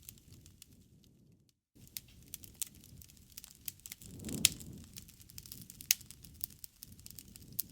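Wood fire crackling in a fireplace: irregular sharp pops over a low rumble of flame, the loudest pop about four and a half seconds in and another near six seconds. The sound cuts out completely for a moment under two seconds in.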